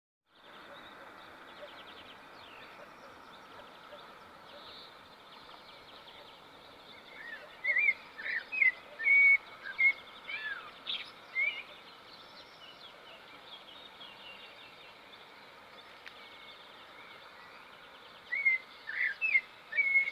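A songbird singing bouts of short, whistled notes that slide up and down. One bout comes about a third of the way in and another near the end, over a steady background of faint, distant chirping.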